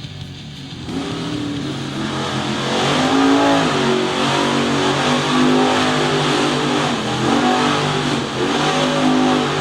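A monster truck's engine revving, its pitch rising and falling several times. It starts about a second in and grows louder a couple of seconds later.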